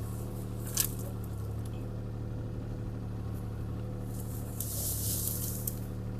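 CAT 303C CR mini excavator's diesel engine running steadily, with a short click about a second in and a brief hiss a little past the middle.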